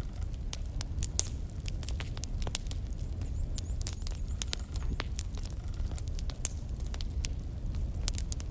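Logs burning in a fireplace, crackling with frequent irregular sharp pops over a steady low rumble of the flames.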